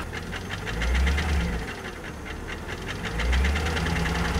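Alpina B7's V8 engine running with a steady, rapid knock, its speed rising briefly twice. The knock started on the Autobahn, and the owner suspects timing chain noise or rod knock from a spun bearing.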